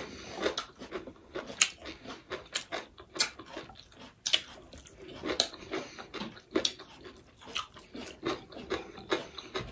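Close-up eating sounds: chewing with a run of short, irregular mouth clicks and smacks, several a second.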